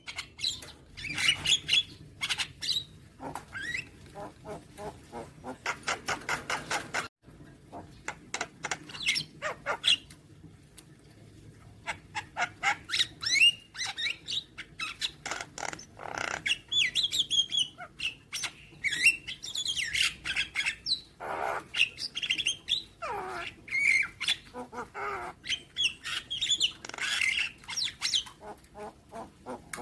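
Javan myna (white-vented myna) singing a varied song: harsh squawks, fast rattling runs of clicks, and whistles that glide up and down, with short pauses between phrases.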